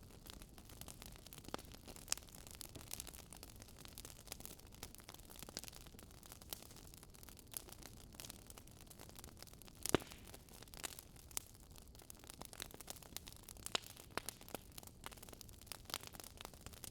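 Wood fire crackling softly: irregular sharp pops and snaps over a low steady hiss, with one louder pop about ten seconds in.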